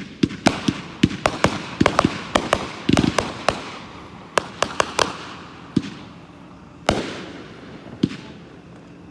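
A 50-shot consumer firework cake (a multi-shot aerial repeater) firing: a rapid string of sharp bangs that thins to a few spaced shots after about four seconds.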